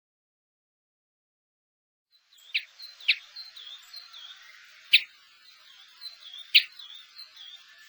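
Finches calling, starting about two seconds in: a string of short, falling chirps with four sharp, loud ticking calls among them.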